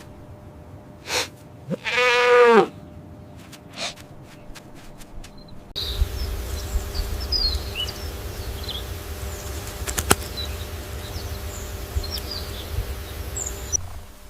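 One loud bleat from a farm animal about two seconds in, its pitch wavering and dropping slightly, among a few light knocks. From about six seconds a steady low rumble takes over, with faint high chirps.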